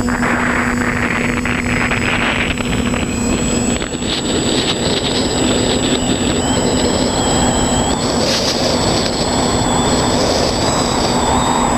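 Quadcopter's motors and propellers running with a steady hum over a rushing noise, the pitch and the higher noise shifting a little as it flies.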